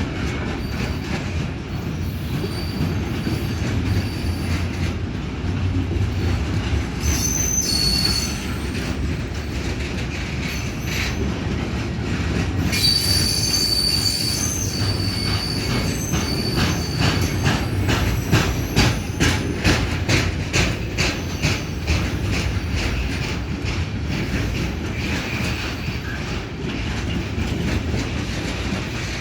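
Freight train wagons rolling past with a steady rumble of wheels on rail. Brief high-pitched wheel squeals come about 7 and 13 seconds in, and in the middle stretch there is a quick run of clicks as the wheels cross rail joints.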